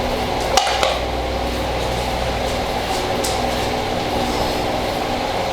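A steady machine hum with several constant low tones, with a few light clicks, about half a second in and again about three seconds in, from the chicken being mixed in its marinade in a bowl.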